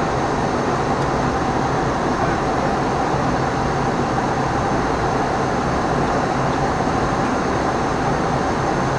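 Steady flight-deck noise of an Embraer ERJ 145: its twin turbofan engines and air rushing past, an even noise with a constant hum and no changes.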